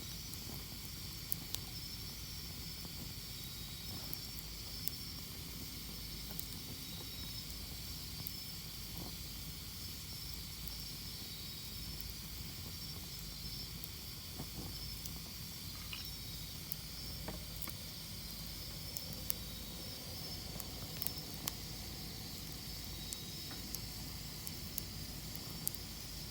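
Campfire burning with a steady hiss and scattered sharp crackles and pops from the wood.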